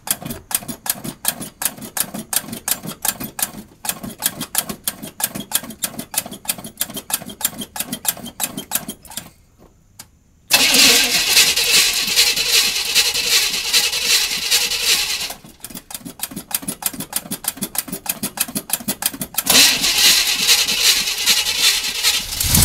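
An engine being cranked and starting. Rapid, even pulses run for about nine seconds, then it stops briefly. It comes back loud for about five seconds, pulses again, and runs loud once more near the end.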